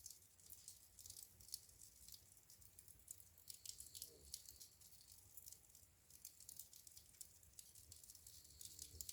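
Wood fire crackling in a fireplace: a faint, irregular run of small sharp crackles and pops.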